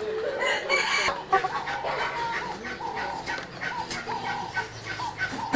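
Fowl calling: a long run of short repeated calls, about three a second.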